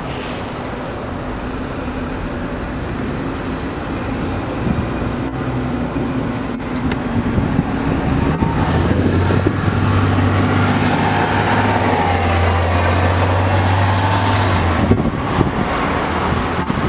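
Steady rush of a wind-driven rainstorm on a city street, with traffic. A passing vehicle's engine hums low and steady for about six seconds in the middle.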